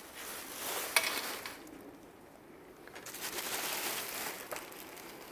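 Rustling of dresses being handled, in two bursts, the first with a sharp click partway through.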